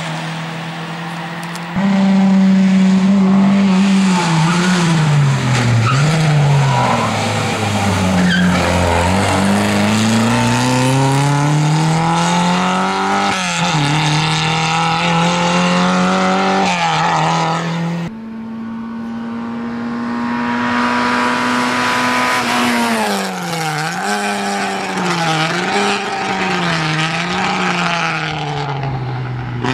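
Lada 2107 rally car engine at racing revs, pitch climbing and dropping again and again through gear changes and braking for corners, with tyres skidding. The sound cuts abruptly about two seconds in and again past the middle.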